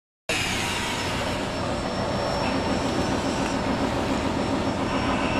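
Power drill running with a KOMA porcelain tile drill bit grinding into hard tile: a steady mechanical drone with a thin high whine, cutting in abruptly right at the start.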